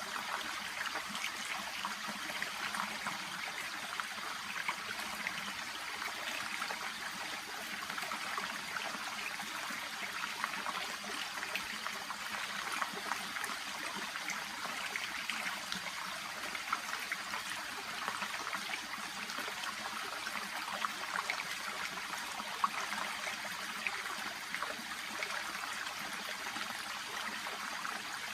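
Small shallow stream murmuring and trickling steadily, a fine, even patter of many little splashes.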